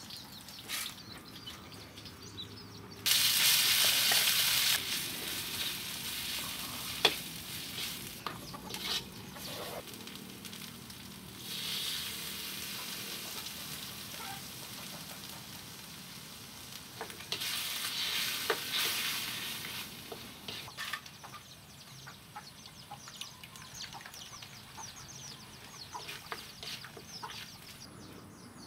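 Food frying in hot oil in a wok, with a loud sizzle flaring up about three seconds in and swelling again twice later, while a wooden spoon scrapes, stirs and now and then knocks against the wok.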